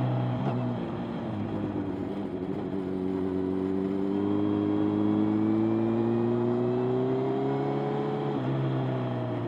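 Motorcycle engine running on the move. Its pitch rises slowly as it accelerates and drops twice, just under a second in and again near the end.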